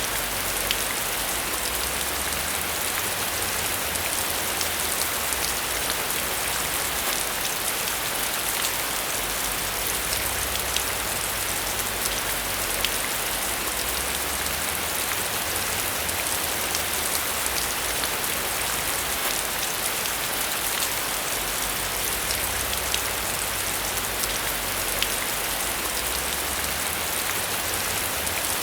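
Steady rain falling, a dense even hiss with scattered sharp drop ticks and a low rumble that swells and fades.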